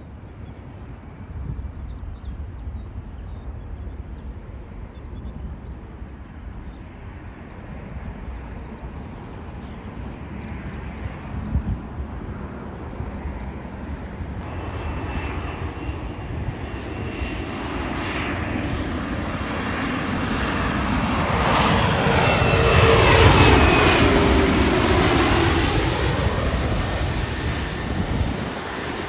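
An airplane passing low overhead: its engine noise builds steadily to a loud peak about three-quarters of the way in, then fades. A whine drops in pitch as it goes by. Wind rumbles on the microphone underneath.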